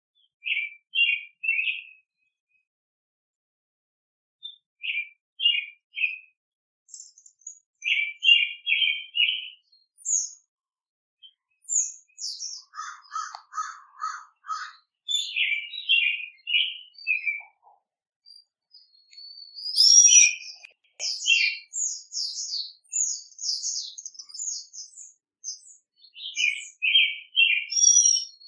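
Wild songbirds singing. One bird repeats a short phrase of three or four quick notes every few seconds, while others add higher thin notes and, about halfway through, a brief run of lower notes.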